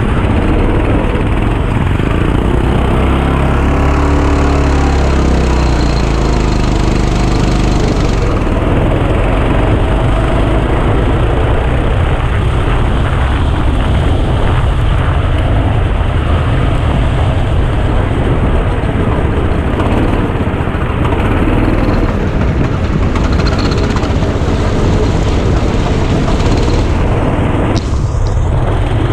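Go-kart engine running loudly and steadily, with a clear rise and fall in pitch a few seconds in as the revs climb and drop.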